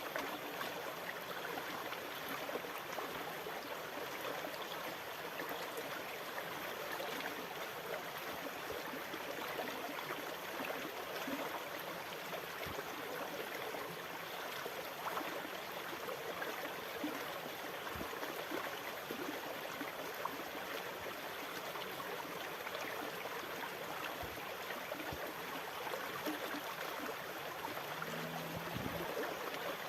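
Continuous rushing water, a steady even hiss with no rise and fall of breaking waves.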